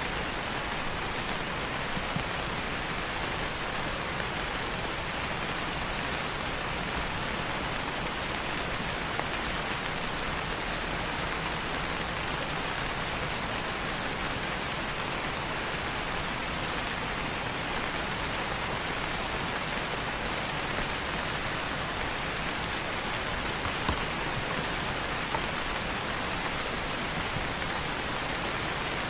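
Steady rain falling on leaves, an even hiss with a few louder drops ticking here and there.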